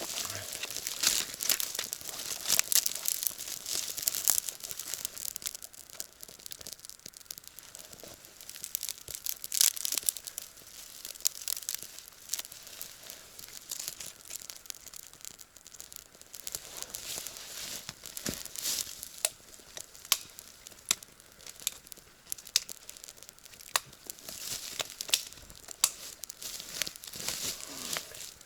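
Footsteps crunching and rustling through dry fallen leaves and twigs on the forest floor, with irregular sharp crackles.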